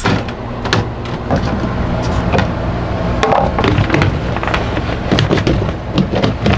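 Steady low mechanical hum under irregular knocks, clicks and clatter as a portable air conditioner and its exhaust hose are handled and fitted.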